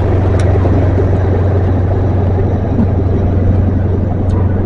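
Diesel train engine running with a steady low drone, from the Class 43 power car of a GWR Castle-class HST set passing or standing close by.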